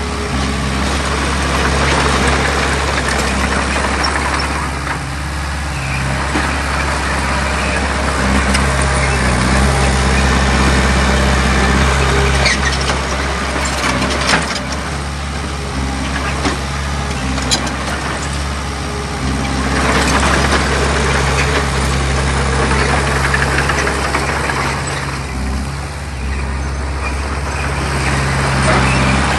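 Diesel engine of a heavy earthmoving machine running under load, swelling and easing every few seconds, with a few sharp metallic clanks in the middle stretch.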